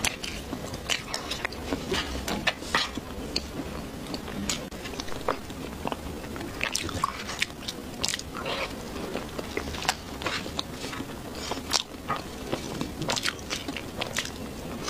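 Close-miked chewing of soft chocolate cake, with many short, irregular wet mouth clicks.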